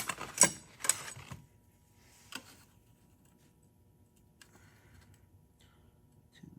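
Several sharp metal clicks and taps in the first second and a half, one more a second later, then faint ticks: a ruler and fingers working against a motorcycle primary chain while its slack is being checked.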